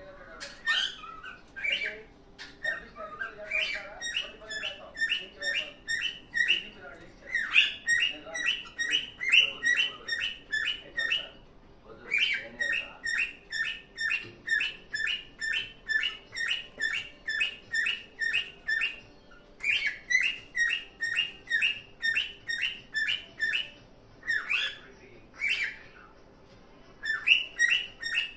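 Pet cockatiel singing: runs of quick, repeated whistled chirps, about two or three a second, broken by short pauses.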